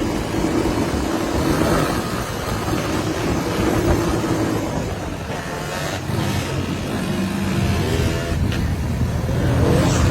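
Dirt bike engine running and revving, rising in pitch about six seconds in and again near the end.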